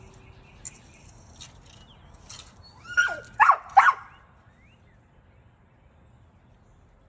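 A dog whining three times in quick succession, each short cry falling in pitch, after some light jingling and clicking.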